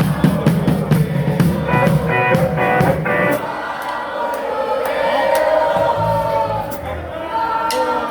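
Live rock band playing with drums and bass, which drop out about three and a half seconds in, leaving held notes and singing.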